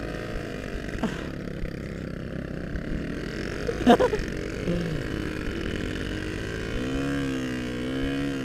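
Yamaha RX-King single-cylinder two-stroke motorcycle engine running on the move. Its pitch rises and falls with the throttle in the last couple of seconds. A brief sharp sound about four seconds in is the loudest moment.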